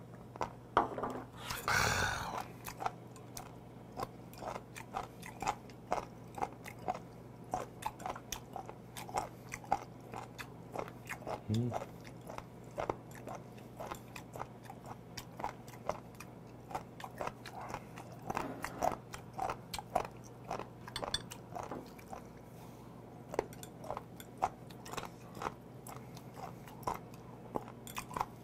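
Close-miked chewing of horned turban (sea snail) meat: many small, wet, crunchy clicks throughout. About two seconds in, a loud breathy exhale follows a shot of liquor, and a short hum comes near the middle.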